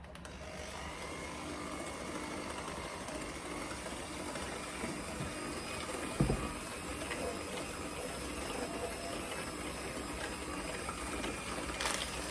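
Electric hand mixer switched on and running steadily, its beaters creaming butter and brown sugar in a bowl, with a single knock about halfway through.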